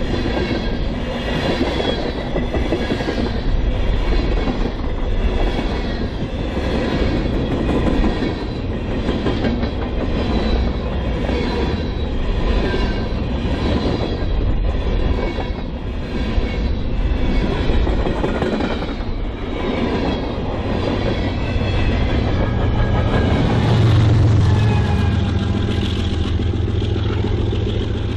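Freight train cars rolling past with a regular clatter of wheels over the rail and a faint high wheel squeal. Near the end, the low drone of a diesel locomotive engine comes in and grows to be the loudest sound.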